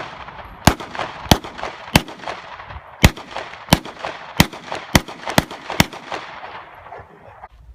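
A string of nine gunshots fired in quick succession, about one every half second to a second, each with echo rolling on between the shots.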